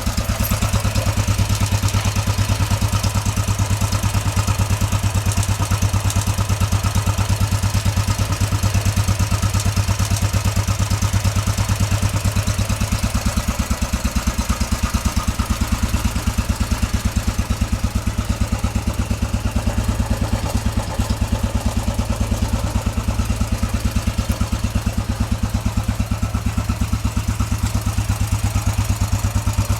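DSK A25 motorcycle engine idling steadily after starting, with an even run of firing pulses; its note shifts slightly about halfway through.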